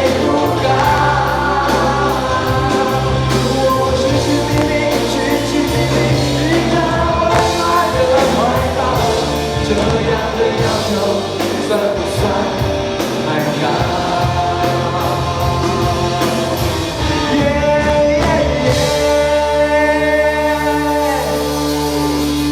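A singer over a pop-rock band, with steady bass and a regular drum beat, holding a long note near the end.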